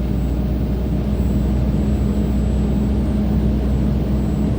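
Heavily loaded truck's diesel engine running steadily under load on a climb, a constant low rumble with a steady hum, heard from inside the cab.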